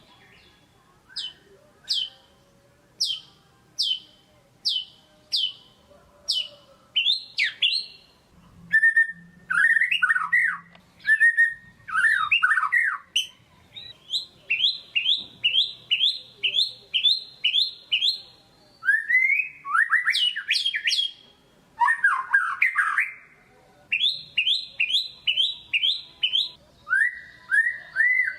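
White-rumped shama (murai batu) singing hard: a run of sharp, falling whistled notes about one a second, then quick varied phrases broken by fast trains of repeated chirps, about three a second.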